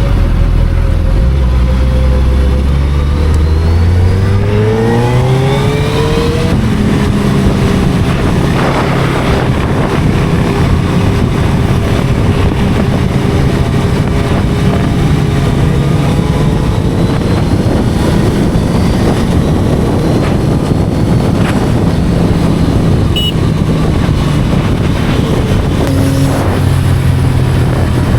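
Inline-four sport motorcycle engine under way, its pitch climbing steeply for a few seconds as it accelerates and then holding steady at cruising speed.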